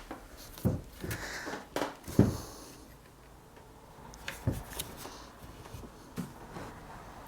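Hands working wooden pieces against a mirror frame: scattered knocks, taps and light rustling, with the sharpest knocks in the first two or so seconds and a few more later.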